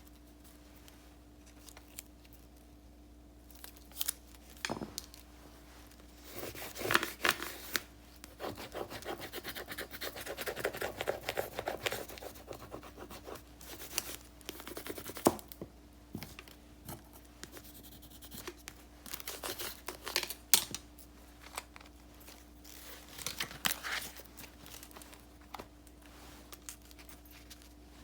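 Paper crafting at a desk: paper and stickers being handled, scratched and snipped, in irregular rustles with a few sharp clicks. There is a longer scratchy stretch about a third of the way in, over a faint steady hum.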